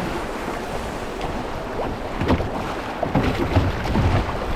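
Rushing water of a small river rapid around a kayak, with wind buffeting the microphone; louder splashes come from about two seconds in.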